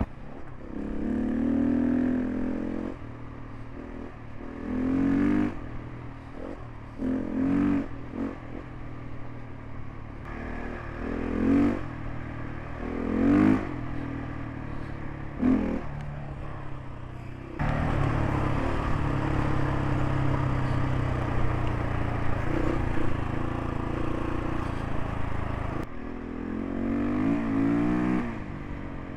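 Single-cylinder dual-sport motorcycle engine pulling away, revving up in a string of surges as it shifts up through the gears. Then it runs at a steady, louder level for the rest of the ride.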